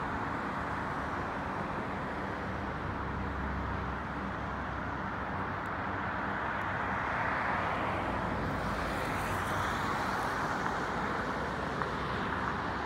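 Steady rumble and hiss of a freight train's tank cars rolling on the rails, a little louder about two-thirds of the way through.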